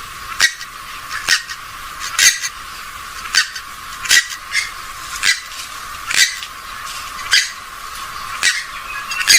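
Short, sharp calls of a gallinule (swamphen or moorhen type) repeated about once a second, some in quick pairs, over a faint hiss.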